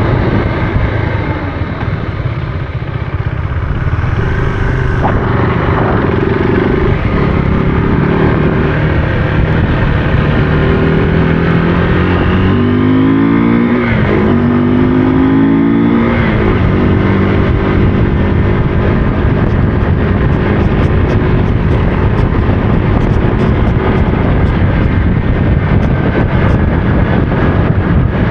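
Motorcycle engine running under way, with a steady rushing noise over it. The engine note rises and falls several times around the middle as the revs change.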